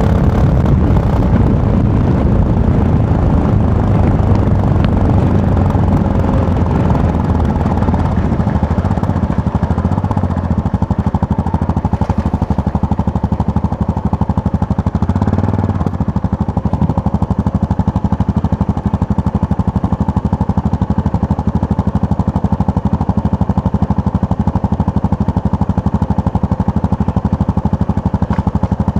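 Yamaha MT-03's parallel-twin engine running under way on the road. The engine note drops about ten seconds in, rises briefly around fifteen seconds in, then holds steady.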